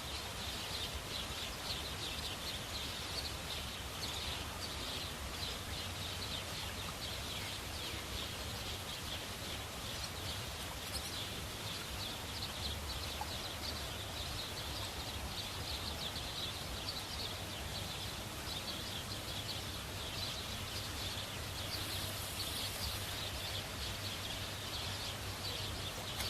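Outdoor night-time ambience: a dense, steady chorus of rapid high-pitched chirping with a faint low hum underneath.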